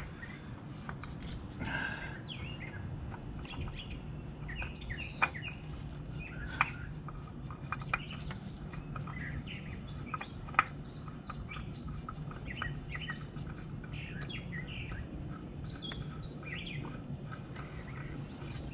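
Small birds chirping repeatedly over a steady low hum, with a few sharp clicks about five, six and a half and ten and a half seconds in.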